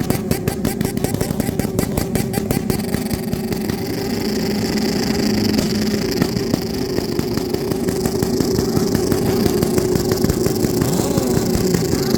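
Motorcycle engines running loudly, with a rapid, even pulsing for the first few seconds before the sound settles into steadier running.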